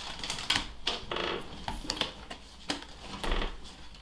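Pokémon booster pack and trading cards being handled: light clicks, taps and rustles of card stock and foil wrapper.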